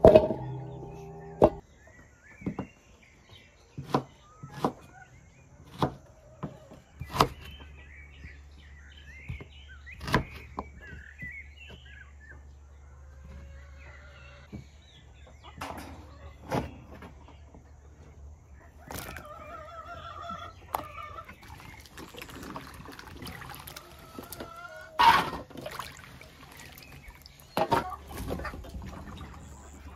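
Knife chopping quince on a wooden cutting board, sharp knocks every second or two, while chickens cluck and a rooster crows in the background. Near the end, hands swish the cut quince pieces around in a basin of water.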